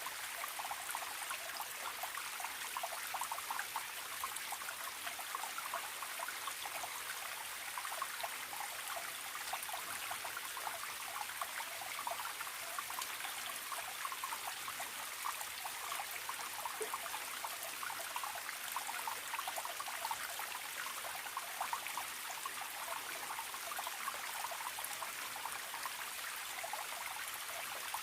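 Forest stream trickling and babbling over stones, a steady bubbling flow that does not change.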